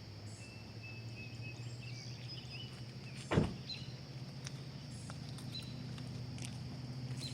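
Subaru WRX's turbocharged flat-four idling through a custom exhaust with a MagnaFlow Cannon muffler, drilled-out packing and resonator delete: a faint, steady low hum that grows slowly louder. A single sharp click sounds about three and a half seconds in.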